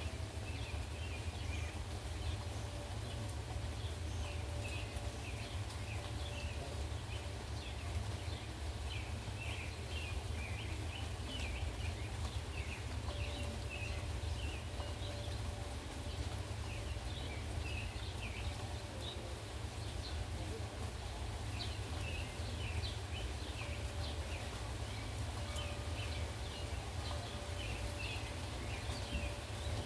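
Birds chirping, many short high calls scattered through, over a steady low rumble.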